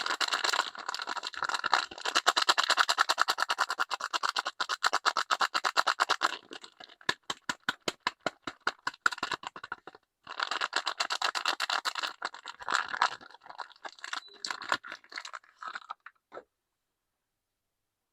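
Soap wrappers being unwrapped by hand: dense crinkling and crackling of the packaging, broken by a few seconds of quick sharp clicks in the middle. The sound stops a couple of seconds before the end.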